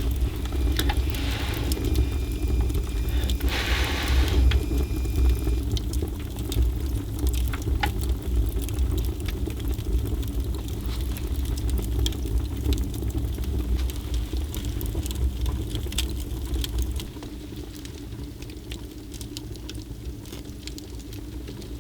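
Wood fire crackling: scattered sharp pops over a steady low rumble, with two short hissing rushes about one and four seconds in. The rumble eases about two-thirds of the way through.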